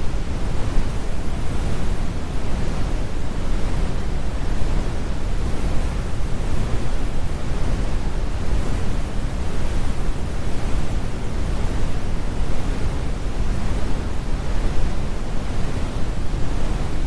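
Steady, deep brown noise, a rumbling hiss with most of its energy at the low end and the highs rolled off.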